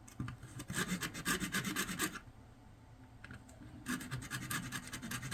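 Rapid scraping strokes of a tool cutting into hard plastic housing, in two bursts of about two seconds with a short pause between.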